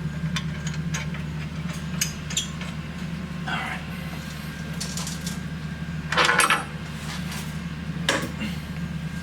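Metal tools and suspension hardware clinking: scattered sharp metallic clicks, with a louder clatter about six seconds in, over a steady low hum.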